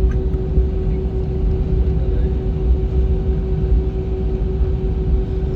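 Steady cabin drone of an Airbus A320 taxiing on the ground: a low rumble with a constant hum over it.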